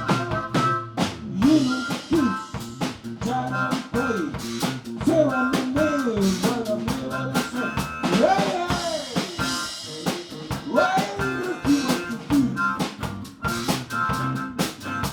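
Live blues band playing an instrumental passage: a drum kit keeps a steady beat with snare rimshots under a lead instrument playing bending, sliding notes.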